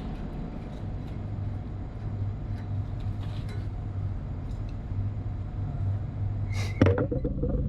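Steady low hum of running plant-room machinery, with a sharp knock near the end followed by a short pitched squeal.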